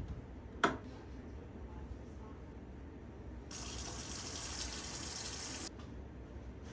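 A sharp click, then about two seconds of steady rushing like water running from a tap, which cuts off suddenly.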